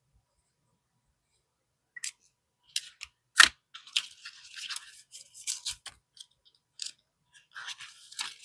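Paper cash and envelopes being handled: rustling and crinkling with scattered clicks, the loudest a sharp snap about three and a half seconds in. The first two seconds are near silent.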